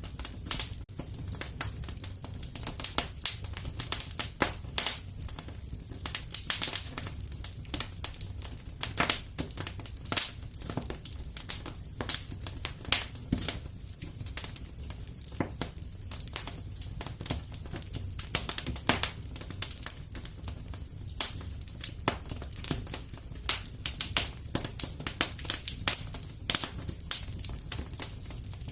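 Wood fire in a fireplace crackling, with irregular sharp pops, several a second, over a steady low rumble.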